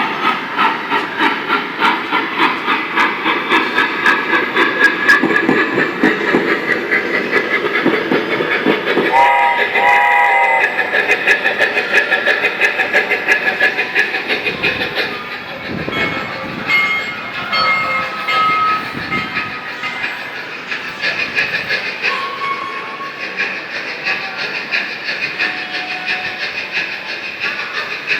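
Falgas Union Pacific train kiddie ride playing its train sound effects: a steady rhythmic clickety-clack of about two or three beats a second, with a two-part horn blast about ten seconds in, the clatter easing off in the second half.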